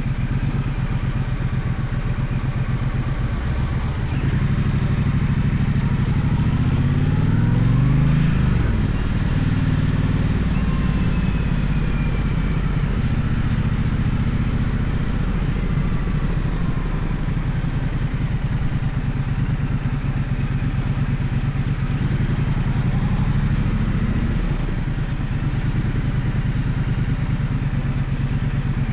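Gaokin GK1200 motorcycle engine running on the move. It pulls up with a rising pitch a few seconds in, peaking around eight seconds before dropping back. It rises again near the end and falls off sharply.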